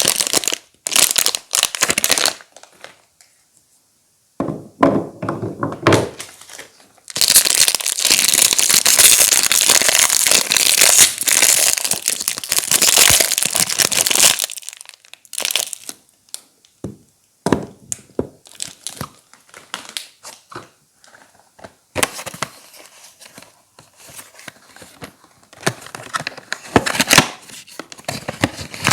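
Soap wrapper being crinkled and torn open by hand, in several long bouts of dense crackling with sharp snaps and short pauses between.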